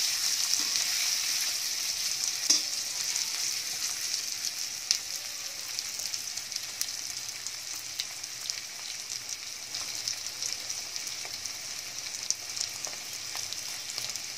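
Marinated paneer cubes shallow-frying in hot oil in a kadai on medium flame, a steady sizzle that slowly grows quieter. They are stirred with a spatula at first, with a few sharp clicks of it against the pan, then left to fry towards golden brown.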